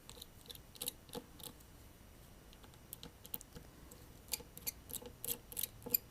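Faint, scattered light clicks and taps of a small precision screwdriver working the tiny Phillips screws inside a Samsung Galaxy S7 phone. The clicks come more often in the last couple of seconds.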